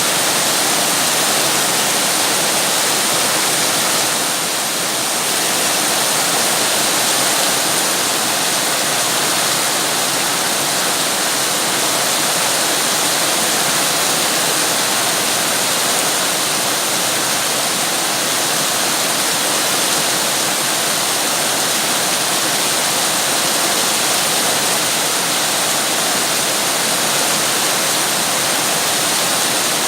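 Rain falling steadily: an even, unbroken hiss, dipping slightly about four seconds in.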